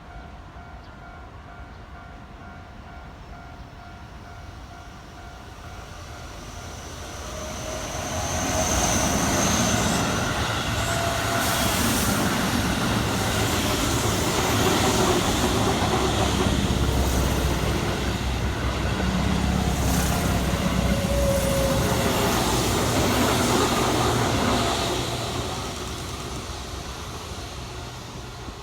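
A Keihan electric train passing close by: the sound swells over a couple of seconds, stays loud for about seventeen seconds of wheels and running noise with a few sharp clacks, then fades away near the end.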